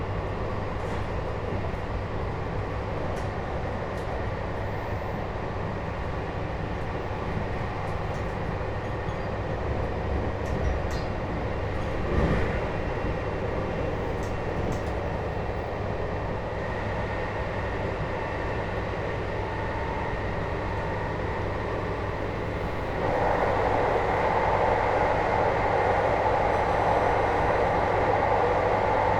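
Running noise inside a JR Hokkaido 721-series electric motor car with a Toshiba GTO inverter, a steady rumble with a single knock about twelve seconds in. About twenty-three seconds in, the sound abruptly grows louder in the middle range and stays so.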